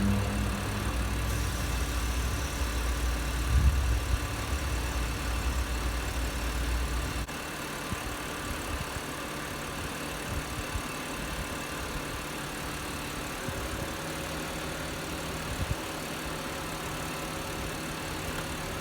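BMW E90 328i's straight-six engine idling with the air conditioning running, during a refrigerant recharge. A heavy low rumble over the idle stops suddenly about seven seconds in, leaving a steady hum and hiss.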